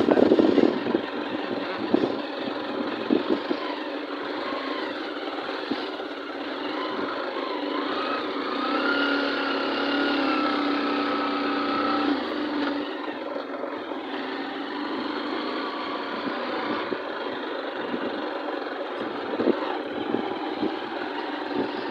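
A motor vehicle engine running on the move, with a steady road and wind noise. A pitched engine tone rises slightly and holds for a few seconds in the middle, then fades back into the hum.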